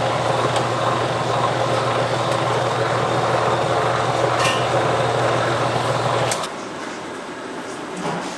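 An electric kitchen machine's motor running steadily with a low hum, then switched off and cutting out suddenly about six seconds in.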